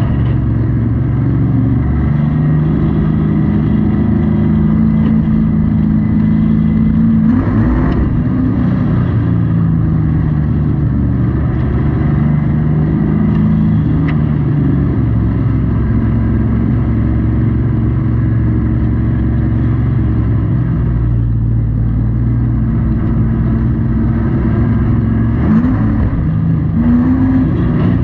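Race truck's engine heard from inside the cab, running hard and loud, its pitch rising under acceleration and falling as the driver lifts, again and again around the oval.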